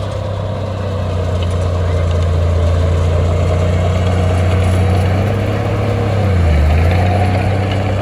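Heavy construction machine's diesel engine running steadily, a loud low hum that dips in pitch briefly about six seconds in.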